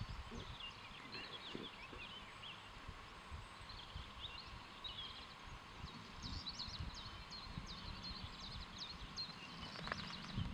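Small birds chirping and twittering with quick, short notes, busiest in the middle of the stretch, over irregular low rumbles of wind on the microphone.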